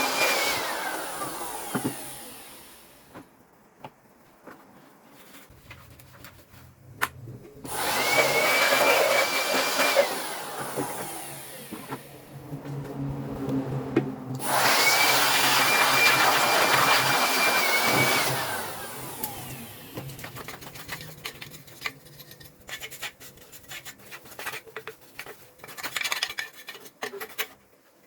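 A handheld power tool's small electric motor: a whine that rises as it spins up, holds steady for a few seconds, then falls as it winds down. This happens twice, about 8 and 15 seconds in, after a first run that is winding down at the start. Light clicks and rattles of parts being handled follow in the last several seconds.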